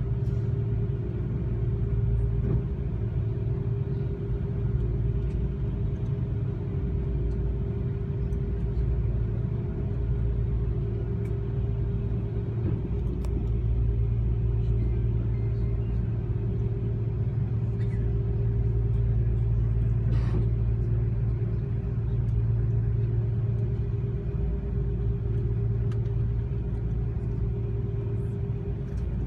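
Steady low rumble with a constant hum inside the cabin of an Airbus A330-200 on the ground after landing.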